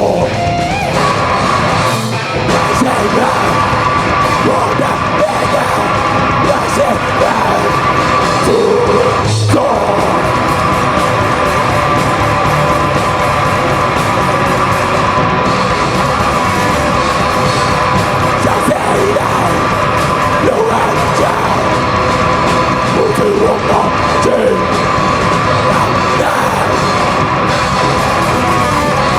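Loud live heavy rock band playing, with distorted guitars, drums and yelled vocals.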